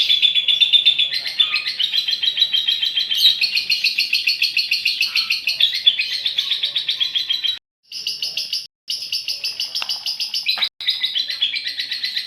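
Female lovebird's long rapid chattering song (ngekek), a fast unbroken string of high, shrill chirps. It drops out to dead silence for a moment twice about eight seconds in, and once more briefly near eleven seconds.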